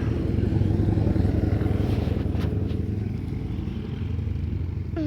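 Dirt bike engine running steadily, easing off a little in the last couple of seconds.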